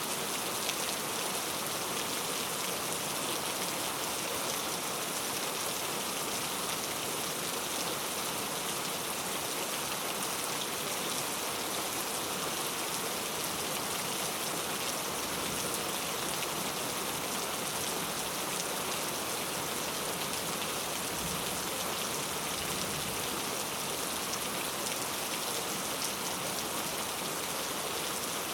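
Steady rain falling, a dense, even hiss of drops hitting a surface, with fine individual drop ticks throughout.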